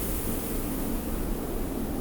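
Steady desert wind blowing, a low rumble under a high hiss of blowing sand.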